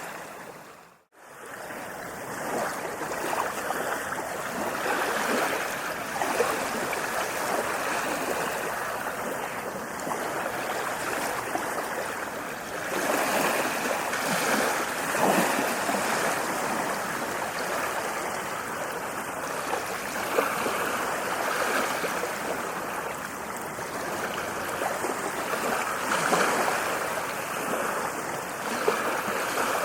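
Ocean waves washing on a beach: continuous surf with slow swells as waves break, cut briefly to near silence about a second in before it fades back up.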